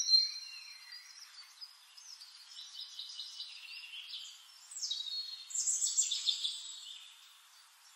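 Birds chirping and whistling in high, quick calls, loudest just at the start and again in a busier stretch about five to six and a half seconds in.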